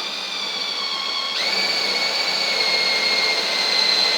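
Electric drill running with a steady whine as it bores out a pilot hole in a car's rear valance panel, starting slowly and then speeding up with a jump in pitch about a second and a half in. The drill bit is blunt.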